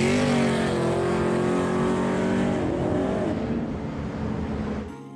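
A car engine revving hard and pulling away, its pitch rising, holding high, then dropping as it fades over a few seconds; cut off abruptly near the end.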